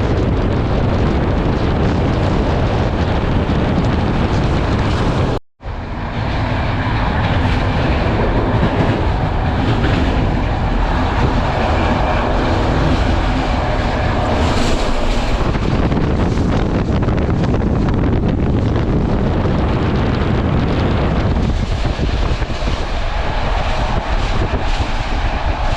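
Passenger train running at speed, heard through an open carriage window: a steady rush of wind and rumbling rail noise.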